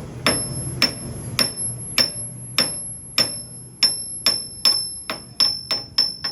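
Hammer striking steel in a steady rhythm, about two blows a second, each blow leaving a high metallic ring; the blows come faster near the end.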